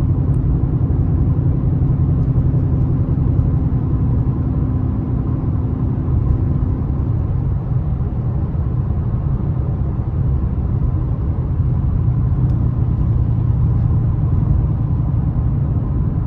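Ford Mustang GT's V8 engine and road noise heard from inside the cabin while cruising at a steady speed: a low, even rumble.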